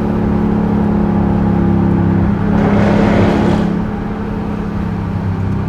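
Straight-piped exhaust of a 2021 Dodge Durango RT's 5.7-litre HEMI V8 running steadily at low, even engine speed. A brief rush of noise swells and fades in the middle.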